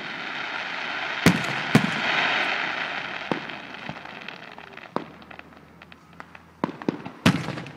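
Aerial fireworks shells bursting: about six sharp bangs at irregular intervals, the loudest a second or so in and near the end, over a rushing hiss that swells and fades in the first three seconds.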